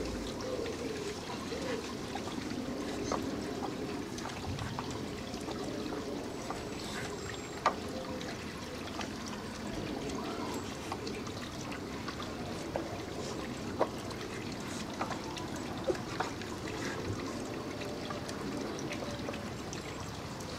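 A dog working a Dog Tornado plastic food puzzle: a steady low rustling and scraping as the layers are pushed round, broken by scattered sharp clicks and knocks.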